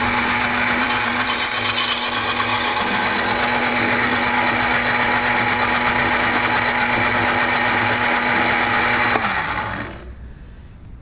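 Electric blender grinding a wet mix of seeds and baby cereal into a bird hand-feeding formula, running at a steady pitch that drops a little about three seconds in. Shortly after nine seconds the motor is switched off and winds down.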